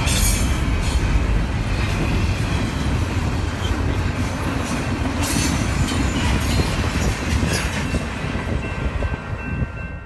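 Empty freight train rolling past close by: a steady heavy rumble with the clatter of wheels over the rails and some faint wheel squeal near the end. It cuts off suddenly at the end.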